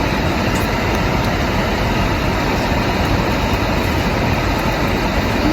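Steady, even rushing noise of a running car heard from inside the cabin.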